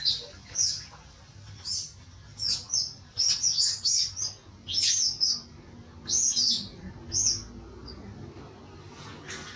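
Small birds chirping: short, high calls in quick clusters, with a pause before one more call near the end.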